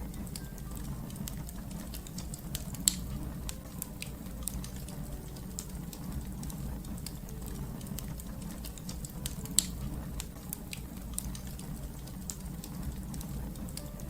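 Fire crackling: a steady low rumble of burning under frequent small sharp crackles, with two louder pops, about three seconds in and again about ten seconds in.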